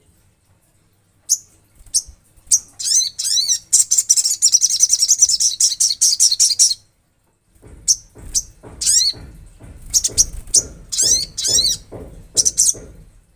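Olive-backed sunbird singing: a few sharp, high chips, then a rapid trill lasting about three seconds. After a brief pause comes a string of quick downslurred notes.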